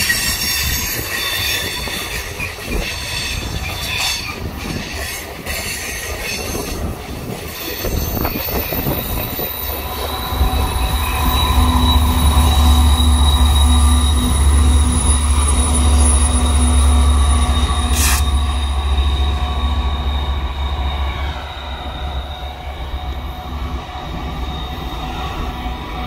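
Freight car wheels squealing on a curve with several high steady tones, then about ten seconds in the deep drone of two BNSF GE ES44C4 diesel locomotives, the rear DPU pushers, passing close, the loudest part, which eases off after a sharp click near the end.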